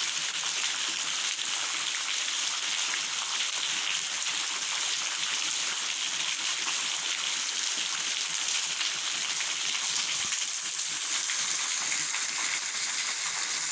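Steady rain falling: a dense, even hiss of countless small drops that holds the same level throughout.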